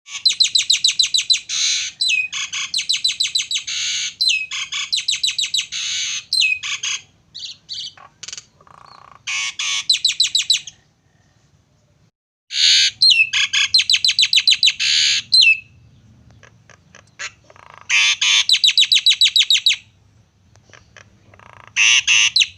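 A jalak (starling) singing loudly in long bursts of rapid, harsh chattering notes with whistled slurs. The song breaks off briefly about halfway through, then resumes.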